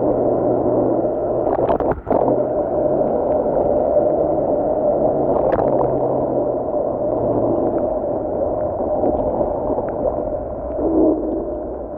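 Steady, muffled rushing and gurgling noise of an electric scooter ride in the rain, with a brief dropout about two seconds in.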